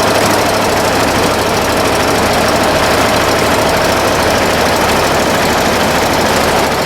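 Loud, steady engine-like machine noise running without a break, with a constant droning tone.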